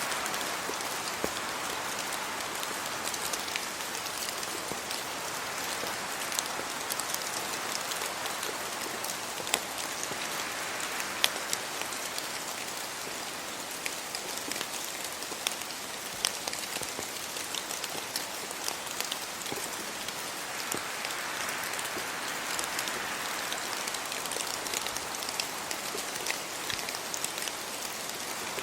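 Steady rain falling on leaves and the ground, a dense hiss with many sharp individual drop hits. The hiss swells a little twice, near the start and about three-quarters of the way through.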